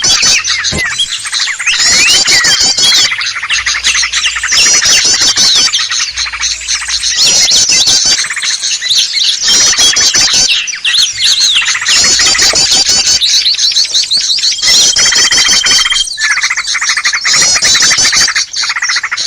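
A dense, noisy chorus of many small songbirds chattering and trilling at once, played as a lure call (pikat) to draw in small wild birds. Fast, high-pitched trills repeat over and over without a break, with a brief steady whistle about three-quarters of the way through.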